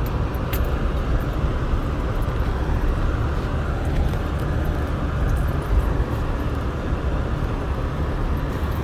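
Truck driving on a snow-covered road: a steady low rumble of engine and tyre noise.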